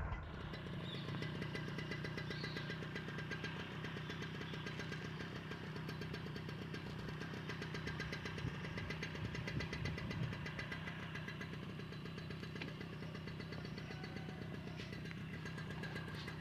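A small engine running steadily at a low, even speed, with no change in pitch.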